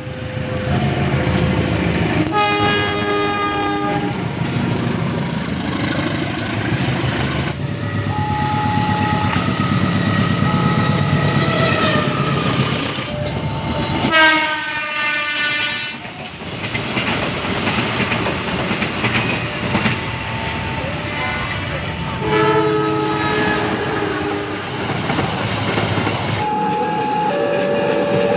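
Train passing with a steady rumble of wheels on the rails, sounding its horn several times; one blast about halfway through slides down in pitch.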